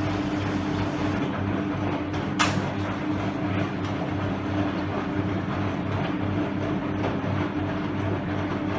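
Hoover Electra 535 Dual Spin washing machine running between rinses: a steady motor hum with a pulsing churn, with one sharp click about two and a half seconds in.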